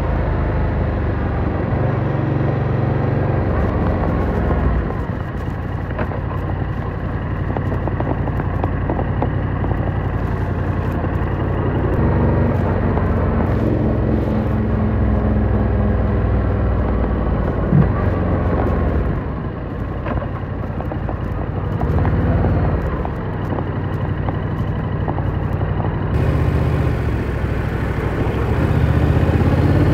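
Yamaha R7 parallel-twin motorcycle engine under way, its revs rising and falling as the rider accelerates and shifts, with wind and tyre noise. There is a single short knock about two-thirds of the way through.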